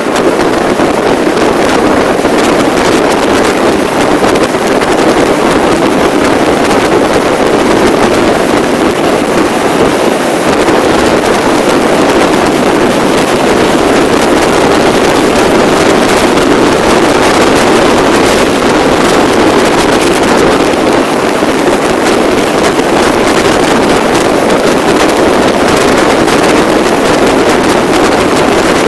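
Steady, loud noise of a moving vehicle, with wind rushing over the microphone throughout.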